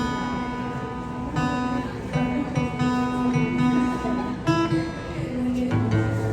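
Acoustic guitar being tuned: single strings plucked one after another and left ringing, several notes on about the same pitch while the out-of-tune B string is brought into tune.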